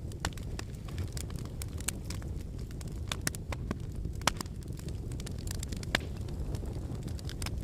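Wood fire burning in a fireplace: a steady low rumble of flames with scattered sharp crackles and pops from the logs, a few of them louder.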